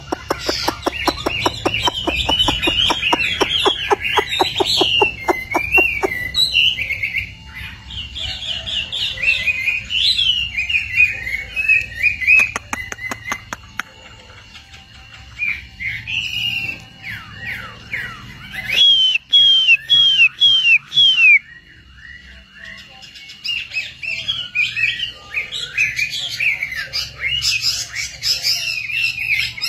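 A small songbird singing a long, varied song of rapid chirps and whistled notes, in phrases with short pauses. A fast rattling pulse runs under the song for the first six seconds or so.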